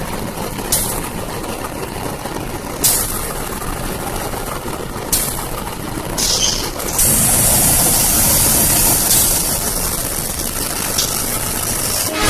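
CC204 diesel-electric locomotive's GE V8 diesel engine running under load while pushing loaded coal wagons, with short sharp hisses every two seconds or so; the sound grows louder and fuller from about seven seconds in.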